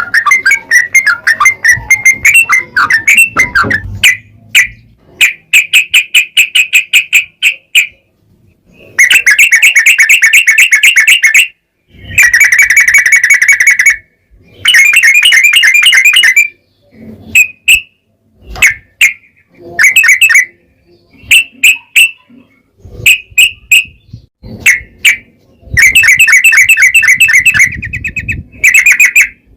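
Yellow-vented bulbul (trucukan) in full song, giving long, rapid rolling trills of fast repeated notes. The trills come in bursts of one to three seconds with short pauses between them.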